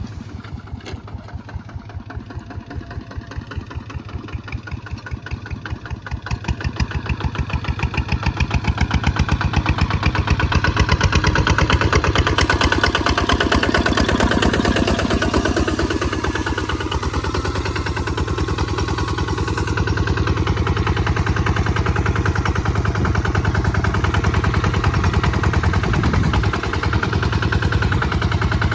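Kubota ZT155 DI single-cylinder diesel engine running while plowing, with a rapid, even thud of firing strokes. It grows louder from about six seconds in, then holds steady.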